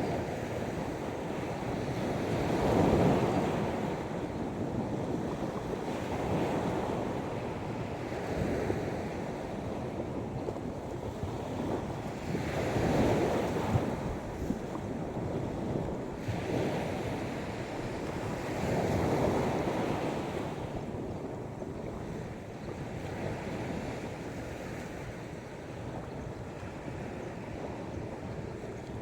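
Sea waves breaking and washing up on the shore, a steady wash that swells into a louder surge every several seconds, with wind on the microphone.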